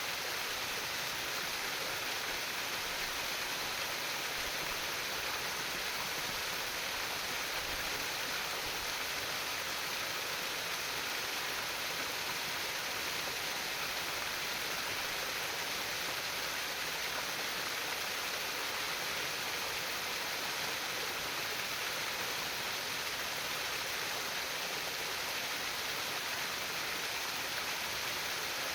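Water flowing and trickling steadily, an even hiss of running water without breaks.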